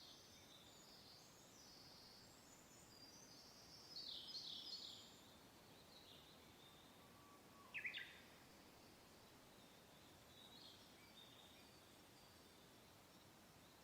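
Small birds calling and singing faintly over a soft, steady wind hiss, with a brief louder burst of song about four seconds in and a single sharp downward chirp about eight seconds in.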